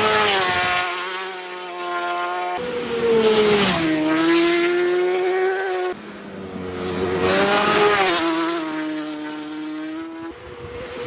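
Superbike racing motorcycles passing at full speed, one after another, each engine note high and then dropping in pitch as the bike goes by. The sound changes abruptly three times where clips are cut together.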